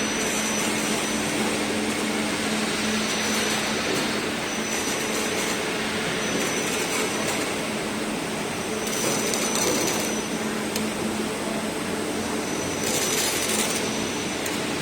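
Roll forming machine for aluminium ceiling baffles running: a steady mechanical hum and hiss, with short high whines that come and go every second or two. Two brief louder hissing stretches come about two-thirds of the way in and near the end.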